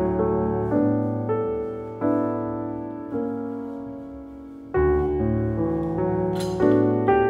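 Background piano music: a slow piece of chords and notes, each struck and left to ring out and fade.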